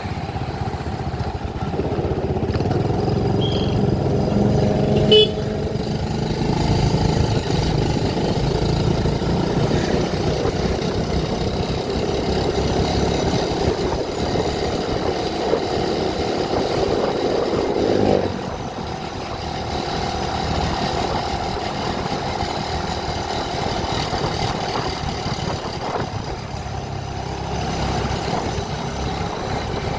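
Vehicle engine and road noise while driving along a road, with a short loud toot about five seconds in and the noise dropping a little just after eighteen seconds.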